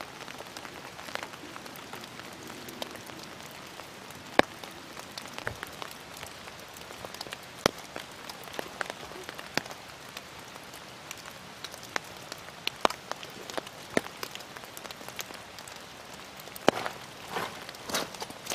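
Rain falling on dead leaves and an open umbrella: a steady hiss with many separate drop ticks scattered through it, and a few rustles near the end.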